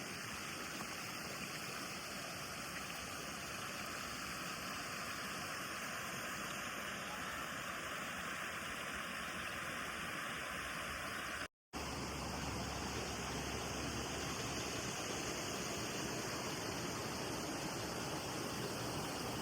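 Waterfall rushing steadily. It cuts out for a split second a little past the middle, then resumes with a bit more low rumble.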